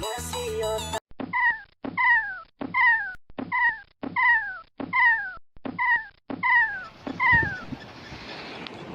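A bird-of-prey scream, an eagle or hawk call, repeated about nine times in a steady row. Each call is a clear, downward-sliding cry about half a second long. Wind noise on the microphone takes over near the end.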